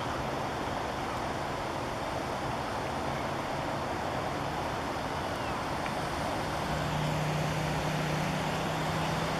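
Steady rushing noise of wind on the microphone, with a low engine-like hum that grows louder about two-thirds of the way through.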